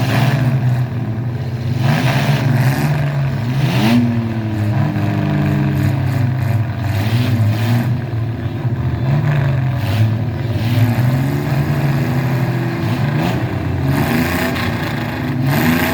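Mini truck engines running and being revved, the pitch rising and falling again and again.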